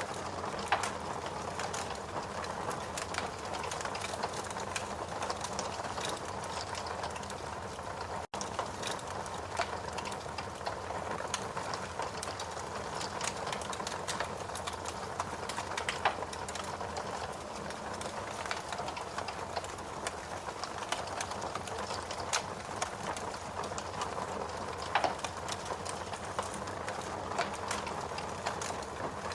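Ambient mix of steady rain and a wood fire crackling in a fireplace, with frequent small crackles and a few louder pops. The sound cuts out for an instant about a third of the way in.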